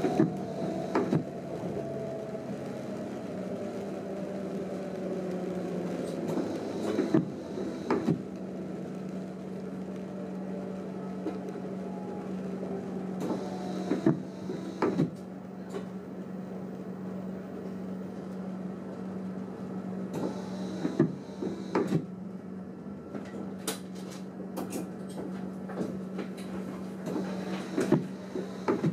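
Running noise inside a train driver's cab: a steady hum with a whine that falls slowly in pitch over the first several seconds. Pairs of short knocks, about a second apart, come back roughly every seven seconds.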